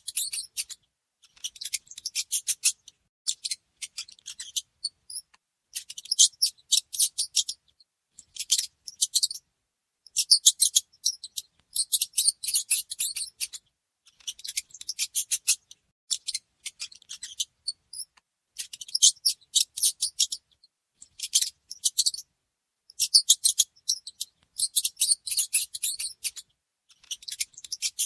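Mouse squeaking in rapid high-pitched chittering runs, each one to two seconds long, with silent gaps between them.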